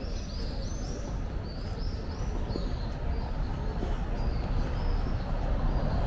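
Birds chirping in a quick series of short, high, arched notes, about two to three a second, over a steady low rumble of street noise.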